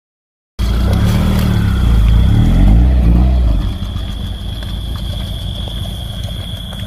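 Car engine running close by, its pitch wavering, then settling to a quieter steady running about three and a half seconds in. A thin steady high tone sounds over it, and the first half second is silent.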